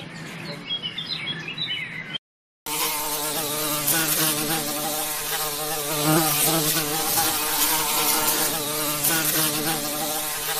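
Honeybee buzzing in a steady hum with many overtones that wavers slightly in pitch, starting after a short silent break about two and a half seconds in.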